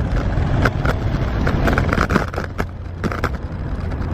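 Ride noise from an electric rental scooter, picked up by a camera on its handlebars: a steady low rumble of wind and pavement, with scattered rattles and knocks as it rolls over bumps.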